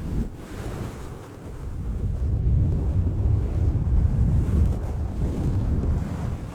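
Sleep-sound noise track: a deep, rumbling wind-like hiss with no tones in it, dipping about a second in and then swelling louder.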